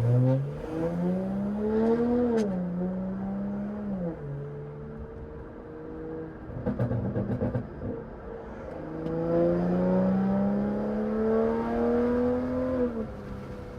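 BMW 540i's turbocharged B58 inline-six through a catless, straight-piped exhaust, pulling hard with the pitch rising, dropping at a shift about two and a half seconds in, then holding steady. Around seven seconds a short burst of crackles and pops comes off the exhaust, then a second rising pull runs until the pitch falls away near the end.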